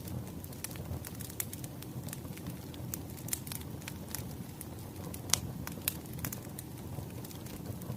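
Wood fire crackling: a steady low rumble of burning logs with irregular sharp pops and snaps, the loudest pop a little past halfway.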